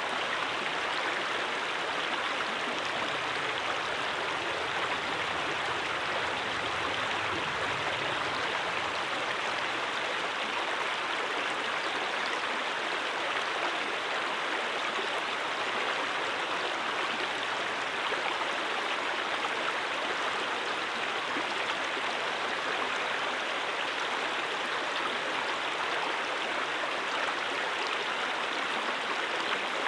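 Stream water rushing and babbling steadily over rocks in a brook, a constant even rush with no breaks.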